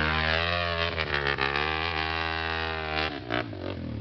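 Trail motorcycle engine running, its pitch falling at first and then holding nearly steady at constant revs, breaking up about three seconds in.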